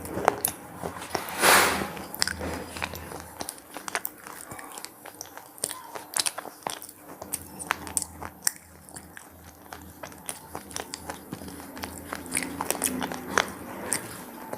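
Someone biting and chewing crunchy cheese-pizza-flavoured snacks close to the microphone: a loud bite about one and a half seconds in, then a run of sharp crunches as they are chewed.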